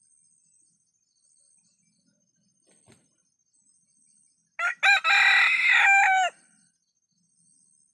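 Ayam kampung (Indonesian native village chicken) rooster crowing once, about halfway through: two short notes, then a long held note that drops in pitch at the end.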